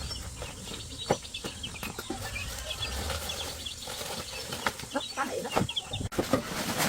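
Small birds, likely chickens, chirping in short repeated notes over a low rumble, with scattered knocks and clicks.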